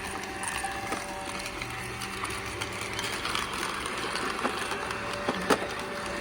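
iRobot Roomba robot vacuum running with a steady motor whine, broken by a few sharp plastic clicks, the loudest about five and a half seconds in.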